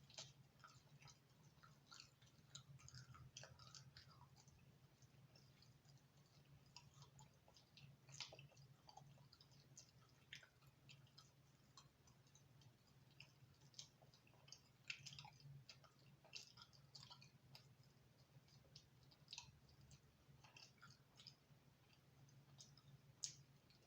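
A person quietly chewing a thin-crust pizza, with many small wet mouth clicks and soft crunches scattered irregularly. A faint steady hum sits underneath.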